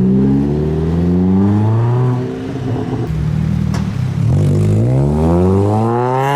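A modified car's engine revving as it drives through the car park, its pitch rising for about two seconds, dropping back, then climbing steeply again near the end.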